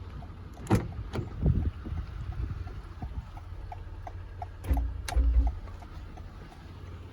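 A 2022 Toyota Highlander's fuel filler door and fuel cap being handled: a few sharp clicks and knocks in the first second and a half, then a louder pair about five seconds in, over a steady low rumble.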